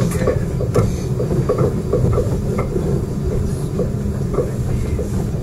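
Rack railway train running, heard from inside its cab: a steady low rumble with irregular clicks and knocks from the wheels, the sharpest near the start and just under a second in.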